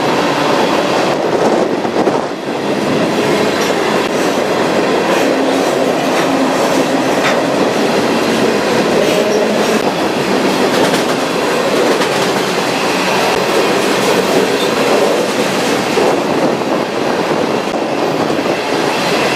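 Freight train running steadily, heard from aboard one of its cars: a loud continuous rumble and rattle of steel wheels on rail, with faint ticks scattered through it.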